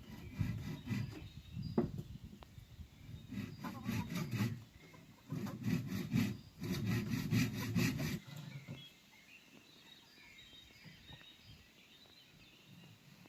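Sandpaper rubbed in several bouts of quick back-and-forth strokes over the cut edge of a bamboo piece, smoothing off burrs. The rubbing stops about eight seconds in.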